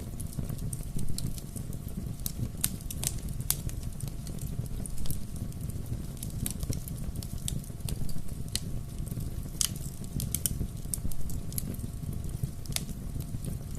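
Bonfire crackling: irregular sharp pops and snaps of burning wood over a steady low rumble of the flames.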